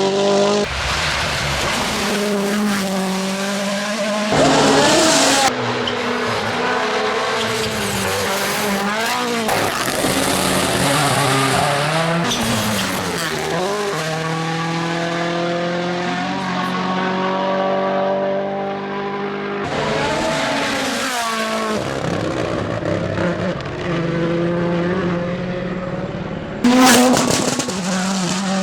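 Rally cars at speed on a special stage: engines revving hard and dropping back through gear changes, several passes one after another with sudden cuts between them.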